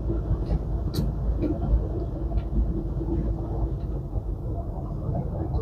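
Inside a semi-truck's cab on a mountain climb: the diesel engine and road noise make a steady low rumble, with a few sharp clicks, the strongest about a second in.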